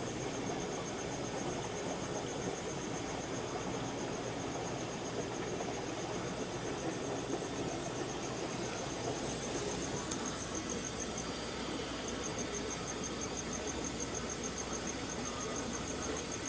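A cricket chirping in a fast, even, high-pitched trill that stops briefly about two-thirds of the way through, over a steady hiss.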